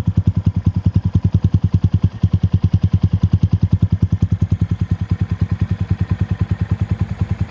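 2022 Honda Monkey's single-cylinder four-stroke engine idling through a Yoshimura RS3 exhaust, a steady, even putting of about ten exhaust pulses a second.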